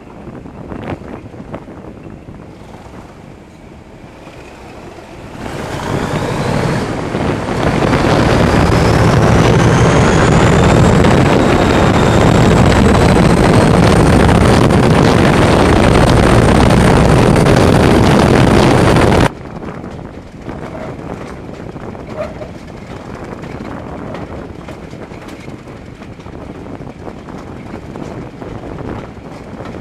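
Diesel-hauled heritage train heard from an open carriage window: rail running and wind on the microphone, then about five seconds in the noise swells to a loud roar as the train runs through a tunnel, with high whines rising in pitch. About two-thirds of the way through the roar cuts off suddenly, back to quieter running and wind.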